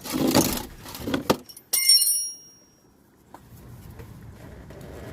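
Metal hand tools and sockets clattering as they are rummaged through. About two seconds in comes a single ringing metallic clink that dies away quickly. After it a faint steady hum remains.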